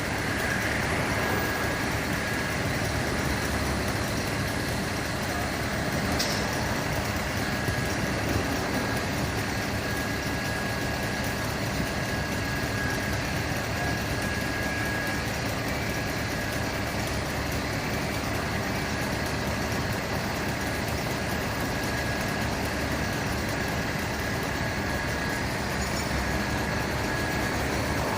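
Heavy truck engine running steadily at idle, with a faint steady high whine.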